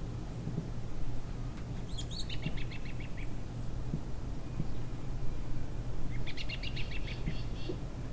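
A small songbird singing twice, each song a quick series of short, high repeated notes lasting just over a second, about two seconds in and again about six seconds in, over a steady low outdoor rumble.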